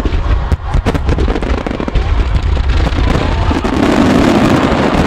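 Aerial fireworks going off in rapid succession: a string of sharp bangs over a low rumble, building into a dense, louder crackling barrage about three seconds in.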